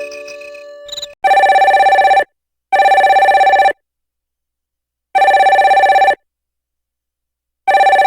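Curitel PH-S3500 flip phone playing a telephone-bell ringtone through its speaker: a rapid trilling ring in four loud bursts of about a second each, separated by silent pauses. In the first second the last notes of a chiming melody ringtone fade out.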